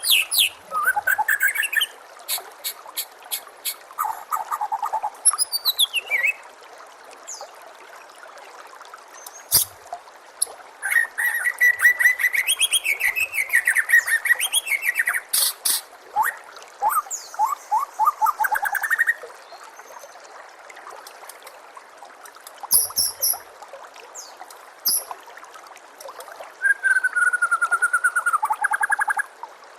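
White-rumped shama (murai batu) singing a varied song of fast repeated sharp notes, whistled trills and gliding phrases, with a pause of a few seconds midway. A steady trickle of water runs underneath.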